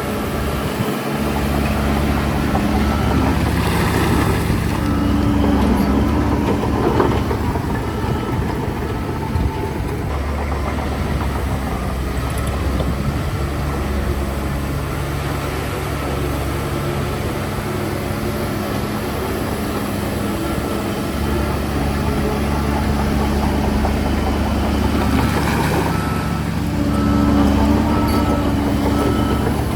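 Heavy construction machine's engine running steadily at a low rumble, with a faint repeating high beep near the end.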